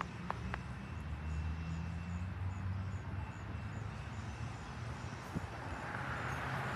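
Low, steady rumble of a long train passing.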